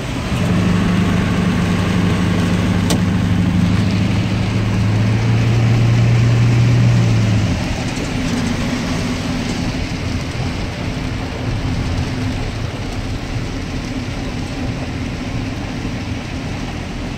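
A vehicle's engine drones steadily while driving, heard inside the cab over a constant hiss of heavy rain and tyres on a wet road. The drone grows louder, then drops away about seven and a half seconds in.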